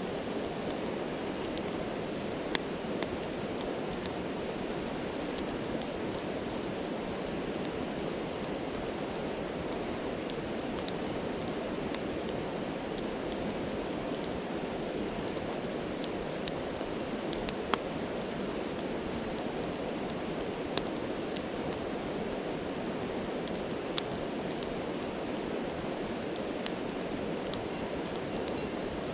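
Steady rushing of a stream, with now and then a single sharp pop from a crackling campfire, about half a dozen in all.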